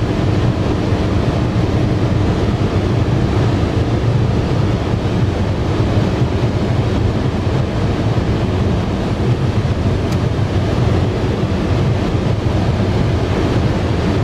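Volkswagen Passat CC's 3.6-litre V6 at sustained high speed: a steady engine drone under heavy wind and tyre noise, holding an even pitch with no gear changes.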